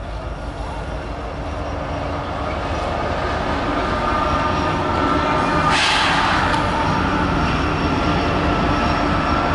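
Diesel locomotives of a Norfolk Southern intermodal freight train running steadily as they approach and cross an overpass, growing louder over the first few seconds. A brief rush of noise comes about six seconds in.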